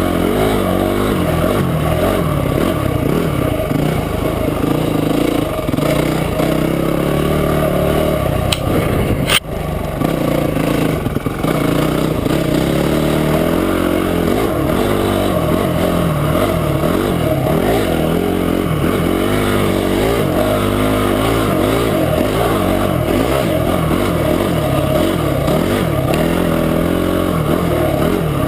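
Motorcycle engine running under way, its revs rising and falling with the throttle. A single sharp knock comes about nine seconds in.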